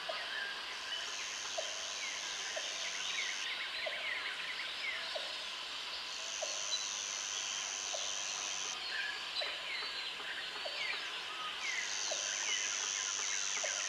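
Jungle ambience: a dense chorus of birds giving many short, falling chirps, with an insect's high, steady buzz coming in three times for about three seconds each. A short, low call repeats about once a second throughout.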